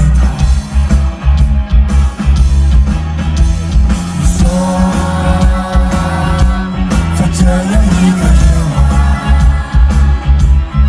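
Live rock band music: loud bass and drums, with a sung vocal line coming in about four seconds in.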